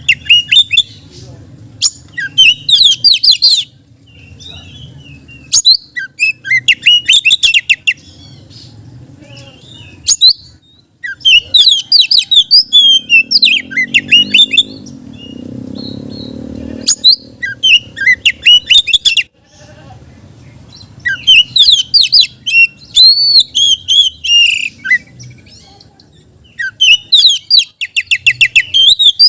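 Oriental magpie-robin (kacer) singing in loud bursts of rapid, varied whistles and trills every few seconds, its song full of phrases mimicked from another bird. A low steady hum lies underneath.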